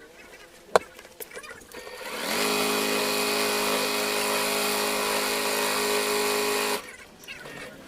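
Electric sewing machine stitching a seam: after a sharp click under a second in, its motor spins up with a short rising whine about two seconds in, runs at a steady speed for about four seconds, then stops abruptly.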